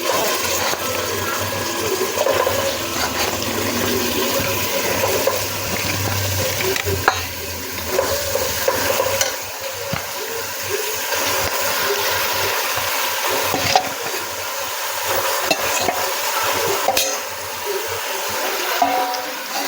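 Raw chicken pieces sizzling in hot oil with fried onion and garlic in a pressure cooker, being stirred, with a few sharp knocks of a utensil against the pot. A steady low hum runs underneath.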